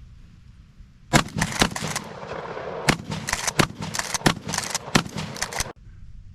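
Norinco 1897 12-gauge pump shotgun fired in a rapid string of shots, starting about a second in, with a short pause after the first two and then about one shot every two-thirds of a second, stopping abruptly near the end.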